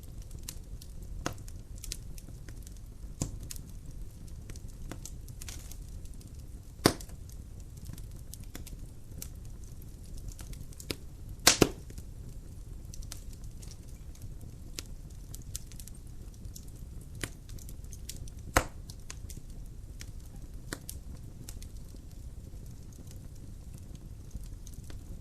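Wood fire burning in a fireplace: a steady low rumble of flames with irregular crackles and sharp pops from the burning logs, the loudest a single pop about seven seconds in, a quick double pop near the middle and another pop a little past halfway.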